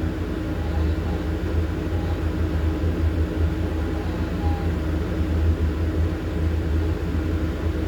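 Excavator's diesel engine running steadily, heard from inside the cab as a deep, even drone.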